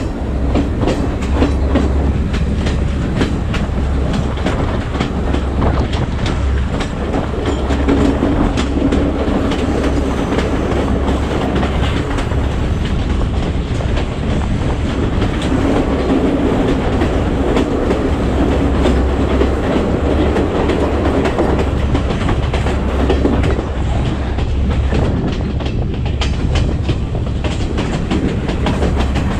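Passenger train running along the rails, with a steady rumble and a constant patter of wheel clicks and carriage rattles.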